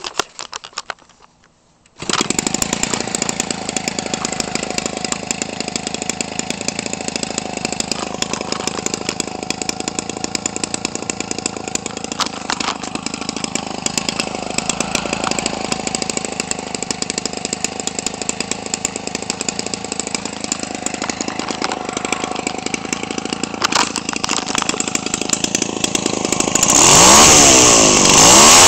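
Homelite 25cc two-stroke engine, converted for a giant-scale model airplane and exhausting through a gutted muffler with a one-piece pipe, catching about two seconds in and idling steadily. Near the end it is throttled up and revs higher.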